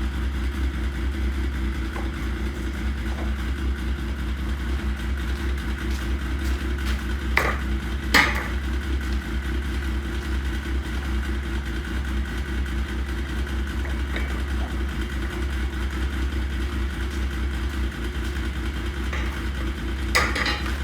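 Yamaha RS Viking Pro snowmobile's four-stroke three-cylinder engine running steadily, with a few short knocks, without any grinding from the gearbox: the reverse cog no longer slips in the chain, so the repair holds.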